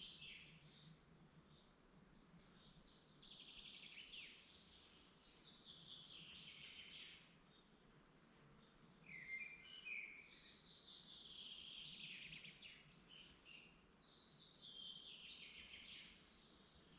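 Songbird singing faintly in woodland, repeating a phrase of rapid notes that falls in pitch, each lasting two to three seconds with short pauses between, over a soft steady background hum.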